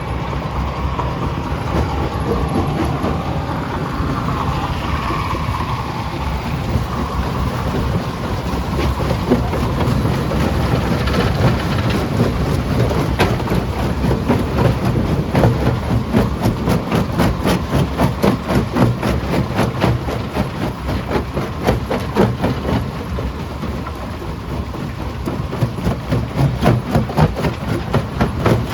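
Primary jaw crusher running with a steady heavy rumble, and rock knocking and cracking in a dense, rapid clatter from about halfway through.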